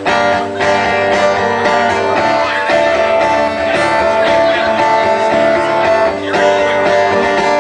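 Live acoustic guitar strumming through an instrumental stretch of a song.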